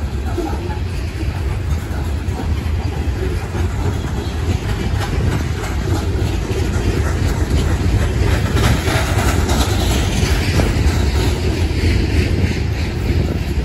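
Loaded coal cars of a long freight train rolling past close by: a steady rumble of steel wheels on rail with clickety-clack clacks, thickest in the middle.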